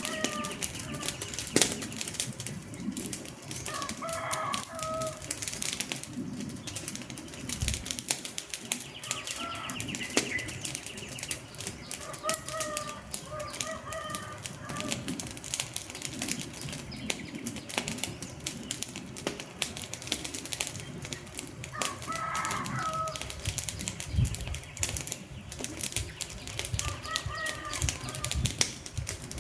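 Wood fire crackling with a dense run of pops and snaps, and short bird calls heard a handful of times behind it.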